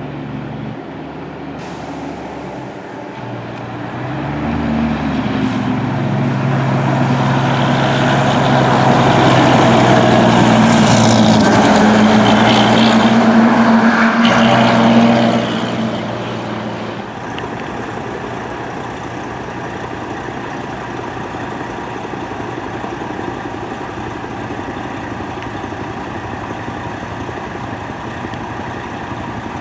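A fire truck drives past close by with its engine running loud. The sound builds over several seconds, peaks, and falls away sharply about fifteen seconds in, leaving steady traffic noise.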